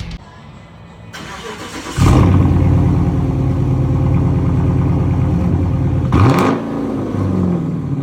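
Dodge Charger R/T's 5.7-litre Hemi V8 running through an exhaust with the muffler and resonator deleted: it starts up about two seconds in and settles into a loud, steady idle. A single rev about six seconds in rises and falls back to idle.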